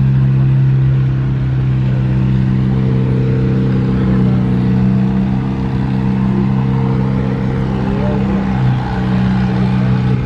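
An engine running steadily at a constant low speed, with a loud, even hum.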